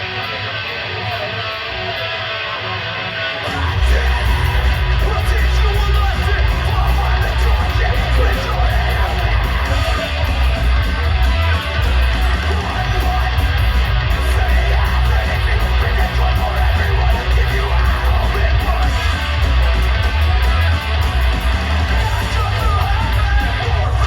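Live rock band playing: electric guitar alone at first, then the full band with heavy bass and drums comes in about three and a half seconds in, with yelled vocals over it.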